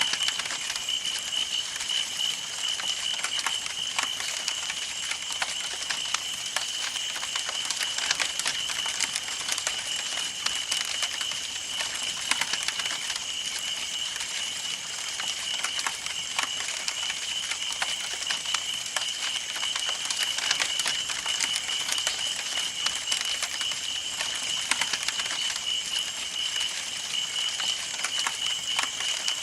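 Campfire burning with dense, irregular crackling and popping of wood. A steady, high-pitched pulsing trill runs underneath throughout.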